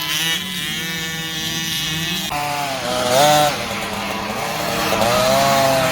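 Small two-stroke dirt bike engines running, the revs rising and falling about three seconds in and again from about five seconds.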